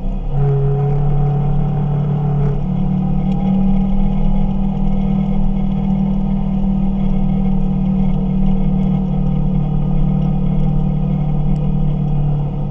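Kawasaki KRX 1000 side-by-side's parallel-twin engine running while driving, its pitch stepping up about a third of a second in and again at about two and a half seconds, then holding steady.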